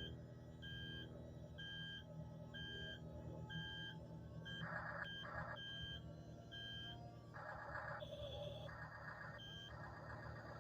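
Electronic reversing beep from a radio-controlled toy bulldozer's sound module, repeating about once every 0.7 s for the first few seconds and again briefly later. Short hissy bursts come in several times over a steady low hum from the drive motors.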